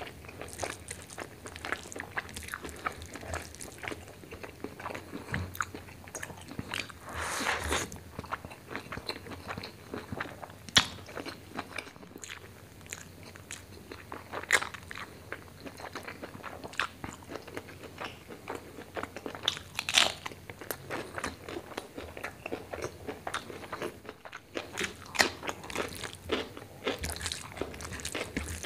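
Close-miked eating of rice with chicken liver and gizzard curry by hand: steady chewing with frequent sharp mouth clicks and smacks, a few louder snaps standing out, and fingers mixing the wet rice and curry on the plate.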